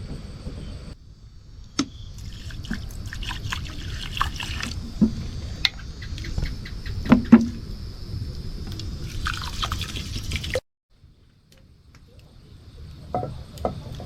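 Water splashing and dripping, with scattered knocks and clinks. The sound cuts off abruptly a few times.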